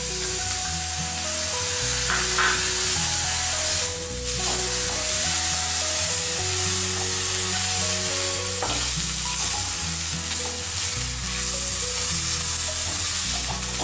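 Masala with fresh green coriander sizzling in a steel kadai on a gas flame while a spatula stirs and scrapes through it. Background music with a slow, steady bass line plays underneath.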